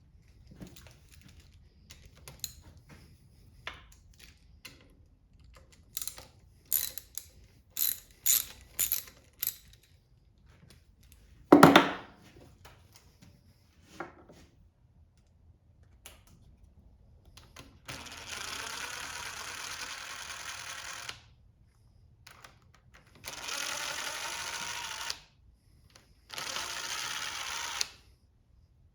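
Tool work on a Kohler small engine: a quick series of sharp ratchet-like clicks, then one loud metal clank. After that comes a steady-running power tool in three runs of two to three seconds each.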